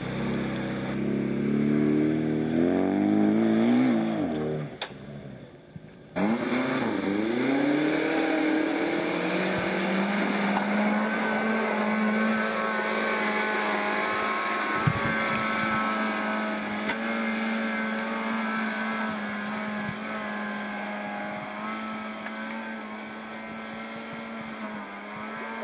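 Off-road 4x4 engines revving under load, the pitch climbing and falling over the first few seconds. After a short drop about five seconds in, an engine revs up again and then settles into a steady drone.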